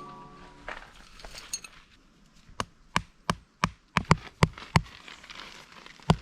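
Hatchet or axe chopping wood: about ten sharp strikes, roughly three a second, starting a couple of seconds in, with a short pause before the last blows.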